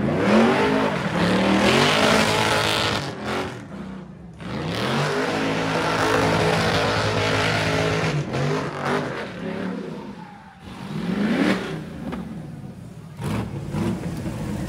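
A high-powered car engine revving hard during a burnout: the revs climb and fall several times, dropping off briefly about three seconds in and again near the ten-second mark, over a dense rushing noise from the spinning tyres.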